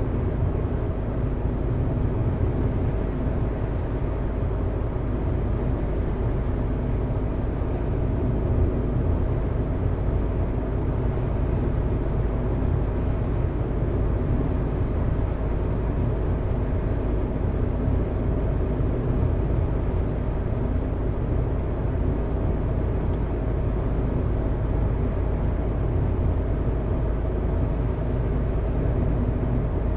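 A car driving steadily along a road: a constant low rumble of engine and tyre noise that holds even throughout, with no sudden changes.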